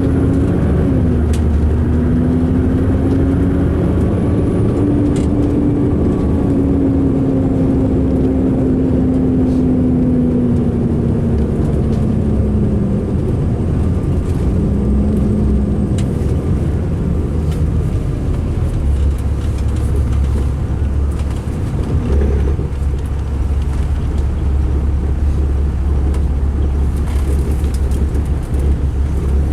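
2005 MCI D4500 coach's diesel engine running rough, a heavy low rumble heard inside the bus, with a whining tone that slides lower over the first dozen seconds. The rumble grows deeper about two-thirds of the way through.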